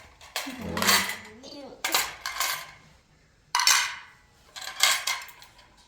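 Spoons and dishes clinking and scraping at a meal, in about four short bursts a second or so apart.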